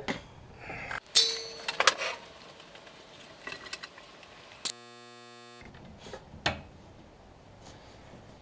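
Metal hand tools clinking and knocking as they are handled, a few sharp clinks about one to two seconds in and more near the middle. It includes a brief, even buzz lasting just under a second.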